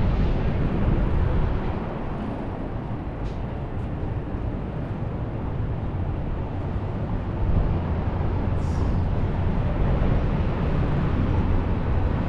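Light rail train running with a steady low rumble, and a low hum that strengthens about halfway through.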